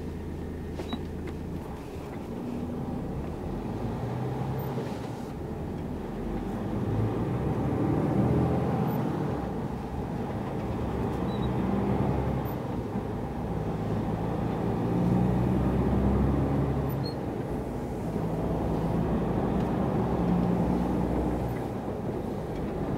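A truck's diesel engine running as the lorry drives, heard from inside the cab. Its pitch and loudness rise and fall as it pulls and eases off.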